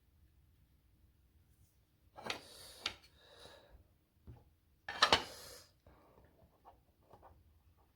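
Trading cards being handled: two short rustling scrapes of cards or packaging, the second louder, with a few faint ticks between them.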